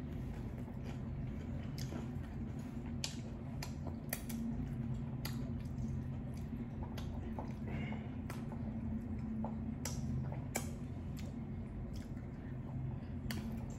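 Close-up chewing of crunchy hard-shell tacos: irregular crisp crunches and wet mouth sounds, over a steady low hum.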